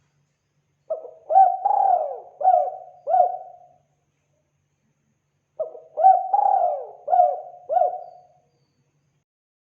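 Spotted dove (tekukur) cooing: two phrases of about five coos each, a couple of seconds apart.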